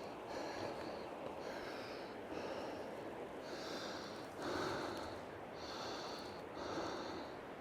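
A hiker breathing hard: a steady run of heavy breaths in and out, about one a second, growing louder in the second half.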